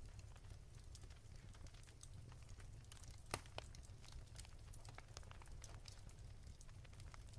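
Wood fire crackling softly: scattered small snaps and pops, with one sharper pop about three seconds in, over a faint low rumble.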